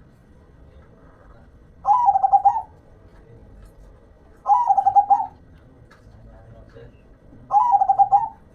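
Zebra dove (perkutut) singing: three short cooing phrases about three seconds apart, each a quick run of staccato notes.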